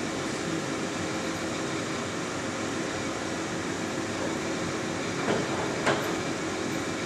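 Monarch 18 x 54 engine lathe running under power, its spindle and geared headstock giving a smooth, steady hum. Two short knocks come about five and six seconds in.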